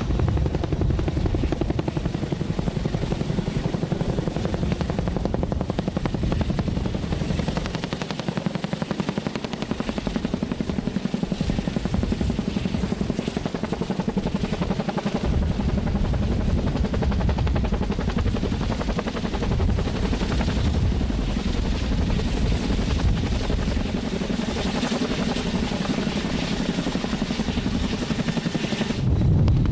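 CH-47F Chinook tandem-rotor helicopter on GE T408 turboshaft engines, its rotors beating in a fast steady thud with a thin high whine above.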